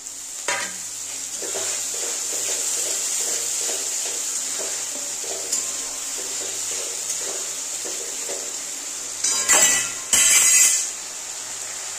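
Onion-and-spice masala sizzling in a metal kadai, just loosened with a little water, while a metal spatula stirs and scrapes the pan. Two loud scraping clatters come near the end.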